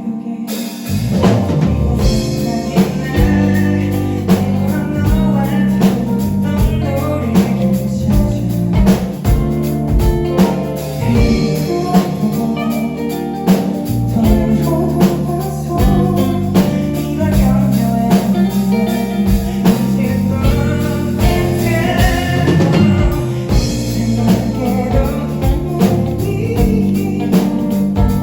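Live band music: drum kit, bass and electric guitar playing a song with a steady beat, heard loud as at a concert.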